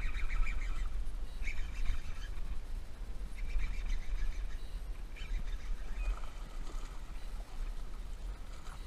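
Birds chirping and calling in short bursts every second or two, over a steady low rumble of wind on the microphone.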